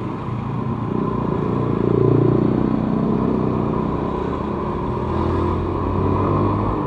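Small Yamaha Vega ZR underbone motorcycle engine running as the bike rides through slow traffic, revving up about two seconds in and then holding a steady drone, with wind and road rumble underneath.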